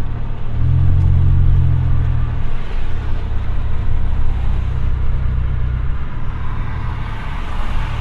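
Honda Accord's exhaust droning low while the car drives, heard from inside the cabin; the drone swells for a couple of seconds near the start, then holds steady.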